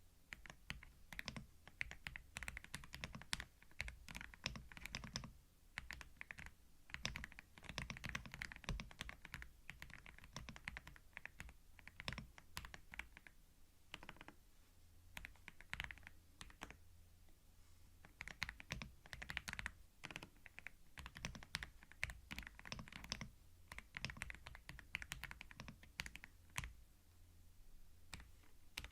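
Typing on a computer keyboard in quick runs of key clicks, with short pauses between bursts.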